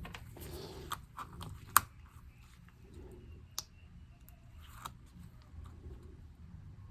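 Scattered small plastic clicks and taps from prying keycaps off a MacBook keyboard, with one sharp click a little under two seconds in and fainter ones later.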